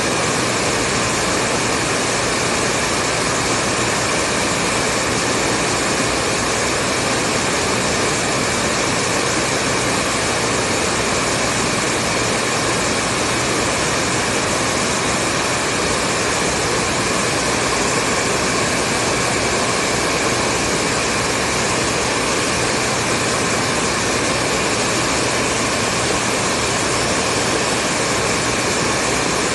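Hair dryer running steadily: an even, unchanging rushing hiss of fan and airflow with a faint steady hum.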